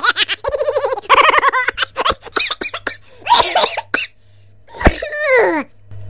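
Comic 'funny laugh cough' sound effect: a person laughing in quick rhythmic bursts that break up into coughs, with a falling note near the end.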